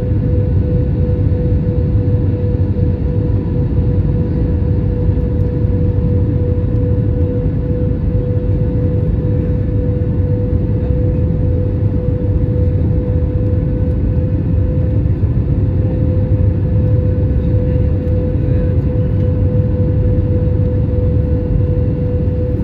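Steady drone of an airliner's engines heard inside the cabin in flight: a constant low rumble with a steady hum, unchanging throughout.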